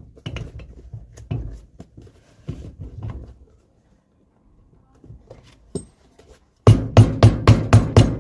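Soft, irregular knocks and scuffs of a boot and sole being handled and pressed together on a workbench. Near the end, background music with a fast, steady drum beat starts suddenly and is the loudest sound.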